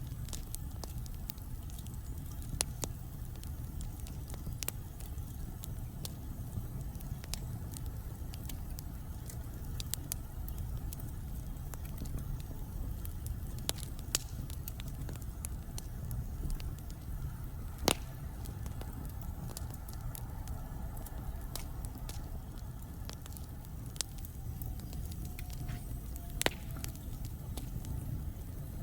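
Wood fire burning in a fireplace, a steady low rumble of flame with irregular sharp crackles and pops, two of them louder than the rest. Late on, a faint whistle drifts slowly down in pitch.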